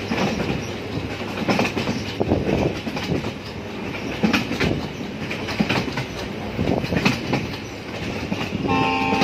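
Passenger train running at speed, heard from on board: a steady rumble with irregular clatter and knocks of the wheels over the rail joints. Near the end a steady tone with several pitches sets in over it.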